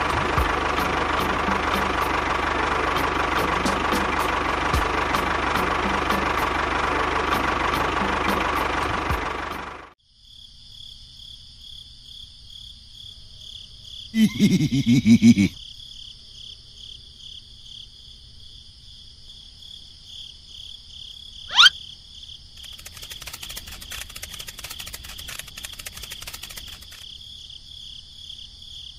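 Tractor engine running steadily with a regular ticking, cutting off abruptly about ten seconds in. After it comes a much quieter stretch with a steady high whine and a few short noises: a brief loud burst, then a quick rising whistle.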